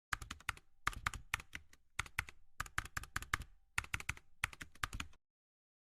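Quick sharp clicks in bursts of several at a time with short pauses between, like keys being typed, cutting off abruptly about five seconds in.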